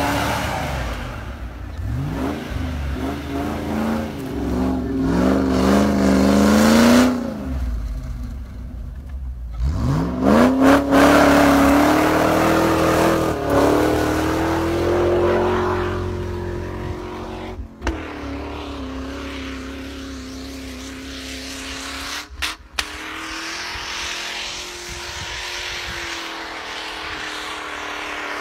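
Land Rover Discovery's Rover V8 engine revving hard under load as the 4x4 pushes through deep snow. The pitch climbs sharply about two seconds in and again near ten seconds. It then settles into a steady run that slowly fades as the vehicle pulls away.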